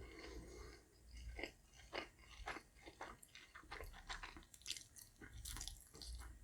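Close-miked chewing of pan-fried egg noodles (chow mein): faint, irregular wet mouth clicks and smacks.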